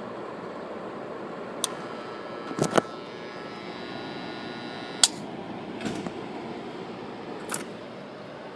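Steady running noise of a GE window air conditioner, broken by several sharp clicks, a pair of them close together about two and a half seconds in followed by a faint metallic ringing.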